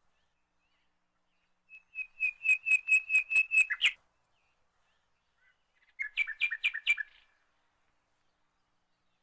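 A small songbird singing two phrases of fast, evenly repeated high chirps: a run of about two seconds starting about two seconds in, then a shorter burst about six seconds in.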